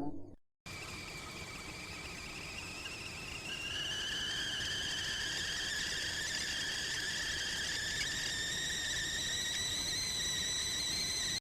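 Stovetop kettle whistling as it comes to the boil: steam hiss with a whistle that climbs slowly in pitch, and a second, lower whistle tone joining about three seconds in.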